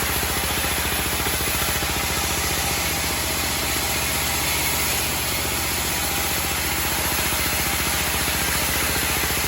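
Homemade band sawmill running steadily, with a low, even engine beat throughout.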